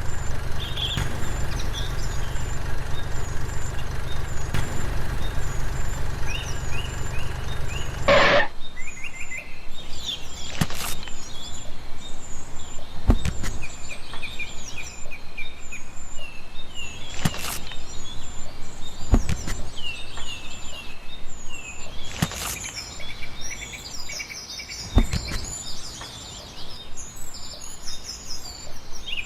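A steady low hum that cuts off about eight seconds in, then birds chirping with a sharp knock every few seconds.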